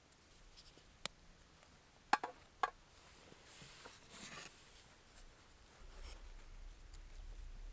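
A light click, then two sharp knocks about half a second apart, followed by a soft scraping noise and a low rumble.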